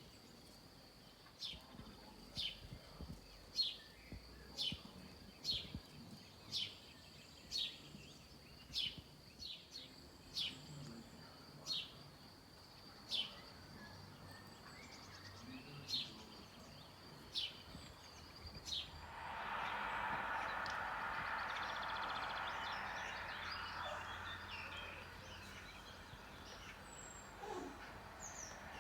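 A bird repeats a short, high, falling call about once a second for about seventeen seconds. Then a rushing noise swells up and slowly fades.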